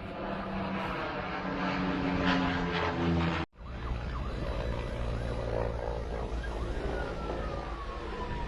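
Firefighting aircraft engine drone over a fire zone during a water drop, with a sudden break about a third of the way in. After the break a lower drone carries on, and a slowly falling tone comes in near the end.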